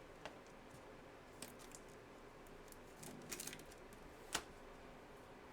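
Faint rustles and light clicks of trading cards being handled and slid over one another, with a sharper click about four seconds in.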